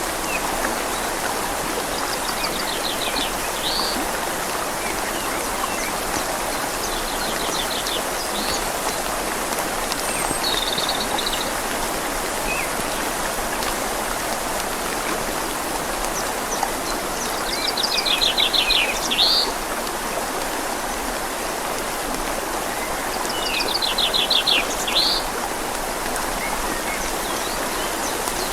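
Steady rush of a flowing river mixed with rain falling on leaves. A bird gives a short, rapid trill several times over it.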